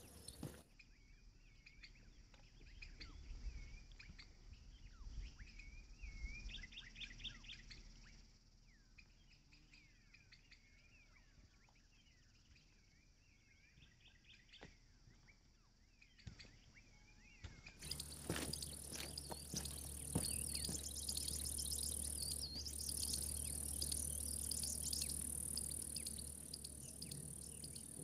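Birds chirping and trilling faintly, with short curved calls and quick repeated notes. About two-thirds of the way in, the sound jumps to a louder, fuller background with more chirping over a steady low rumble.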